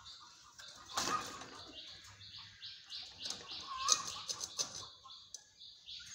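Budgerigars chirping and chattering in a rapid run of short, high calls, with a few lower warbling notes and a burst of wing flapping about a second in.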